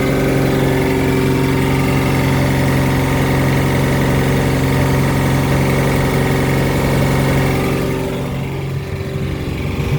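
Volvo Penta 4.3GL-E 4.3-litre V6 stern-drive engine running steadily with the knocking noise its owner is recording, then shutting off about eight seconds in and dying away.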